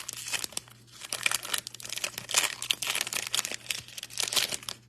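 Foil wrapper of a 2023 Bowman trading-card pack being torn open and crinkled in the hands, a dense irregular crackle that dies down near the end.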